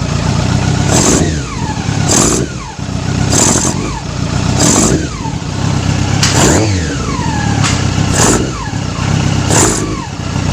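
Yamaha R6 inline-four engine running unevenly, its revs repeatedly rising and falling back as the throttle is blipped. The idle is erratic from a carburettor fault, and the engine tends to die when blipped.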